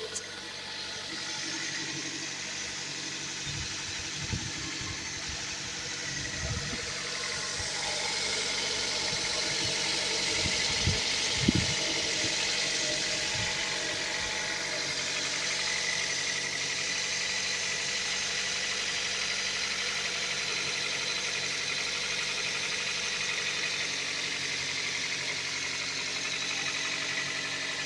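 2000 Toyota MR2 Spyder's 1.8-litre four-cylinder engine idling steadily on its fast idle after a cold start, with a few dull thumps in the first half.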